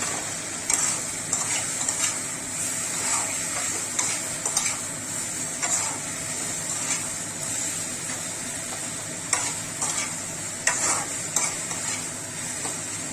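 Fried chicken pakoras being stirred through sizzling sauce in a kadai: a steady sizzle with irregular scrapes and clinks of the stirring utensil against the pan.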